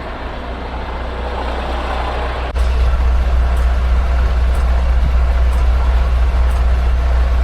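Semi truck's diesel engine running, heard from inside the cab as a steady low rumble. About two and a half seconds in there is a sharp click and the rumble gets louder, with faint ticks about once a second after it.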